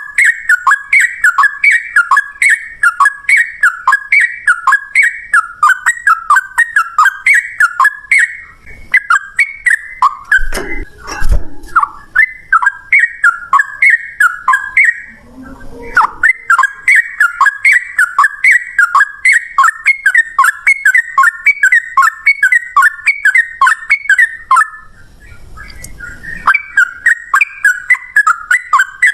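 Yellow-vented bulbul (trucukan) singing a fast, rolling chatter of short repeated notes, several a second, broken by brief pauses. A short low thud is heard about eleven seconds in.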